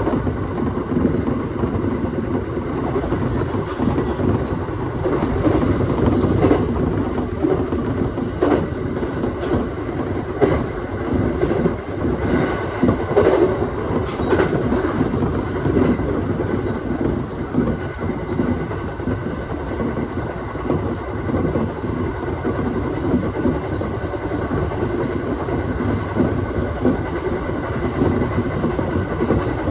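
Aoimori Railway 701-series electric train running, heard from inside the train: steady rolling noise with the wheels clicking over rail joints now and then.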